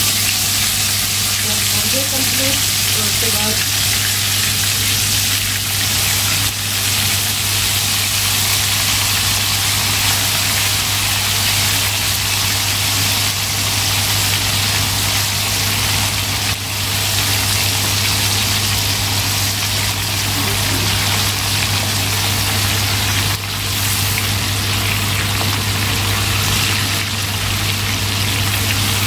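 Marinated chicken tikka pieces deep-frying in hot oil in an aluminium karahi: a steady, dense sizzle and bubbling, with a low steady hum underneath.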